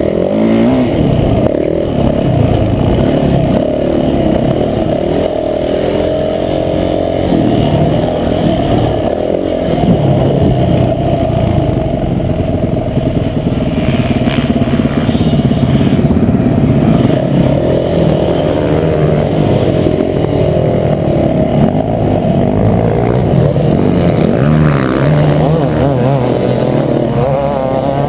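Motocross bike engine heard onboard while riding, its revs rising and falling continuously. The sound is muffled, as through an action camera's waterproof case.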